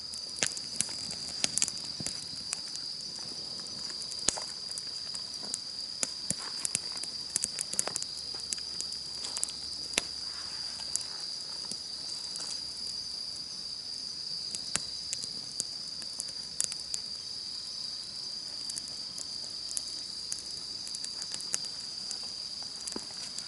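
Wood fire crackling, with irregular sharp pops that come more often in the first half, over a steady high-pitched drone of insects singing.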